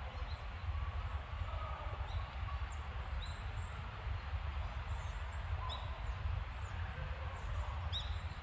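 Small birds giving a few short, high, rising chirps, spaced a couple of seconds apart, over a steady low rumble.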